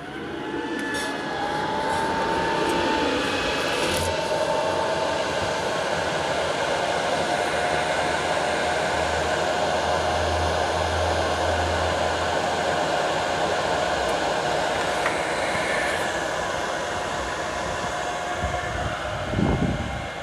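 Cooling fans of an Antminer ASIC mining rig blowing hard: a steady loud whir that climbs in pitch and level over the first couple of seconds, then holds. A brief low thump near the end.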